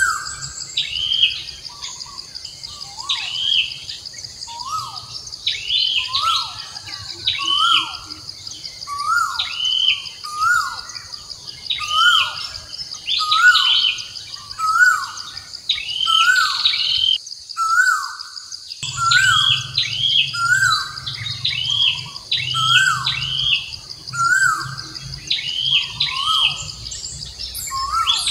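Birds calling repeatedly, short downward-sweeping chirps about once a second, over a steady high-pitched insect drone.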